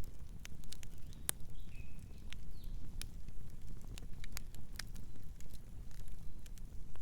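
Wood campfire crackling and popping in irregular sharp snaps over a low, steady rumble of burning. A couple of faint short bird chirps come about two seconds in.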